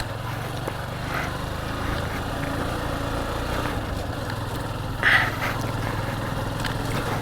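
Motorcycle engine running at a steady low speed, with a short, sharper sound about five seconds in.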